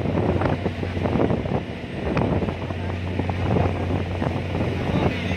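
Strong wind buffeting the microphone on a ferry deck, gusting unevenly, over the steady low hum of the car ferry's engine.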